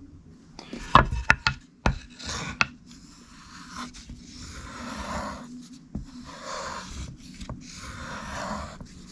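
A few sharp knocks and clicks of handling the knife, then a knife blade drawn along a homemade strop in slow, even strokes of rubbing about every second and a half, to take off the last of the burr.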